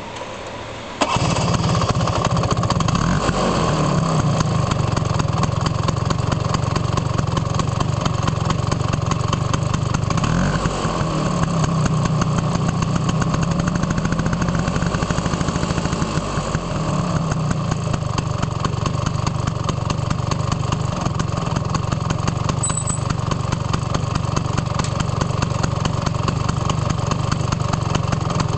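Vespa PX200 FL2 scooter's two-stroke single-cylinder engine with its stock exhaust starting about a second in, then idling. It is revved up and back down a few times in the first half, then settles into a steady idle.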